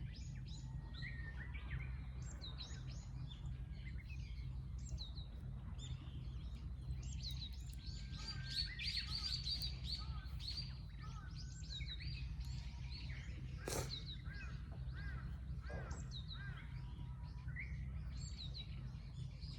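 Several small birds chirping and calling outdoors, many short repeated high chirps overlapping throughout, over a steady low rumble. One sharp click about fourteen seconds in.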